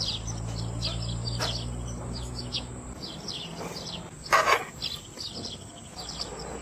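Small birds chirping, a rapid series of short high chirps repeated throughout, with one louder short sound about four and a half seconds in.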